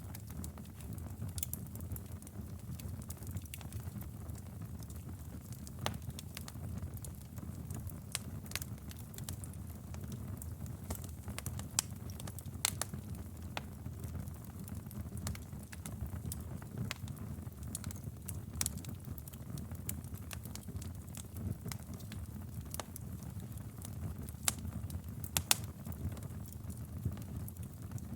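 Wood fire burning in a fireplace: a steady low rumble of the flames with frequent sharp crackles and pops of the burning logs, a few louder pops near the end.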